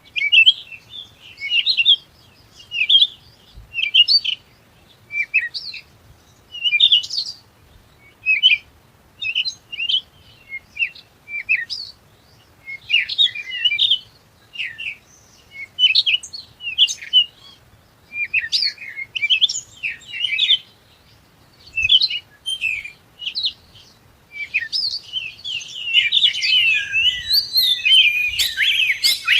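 Small birds chirping in short high bursts, a cluster every second or so, turning into a denser run of overlapping chirps for the last five seconds or so.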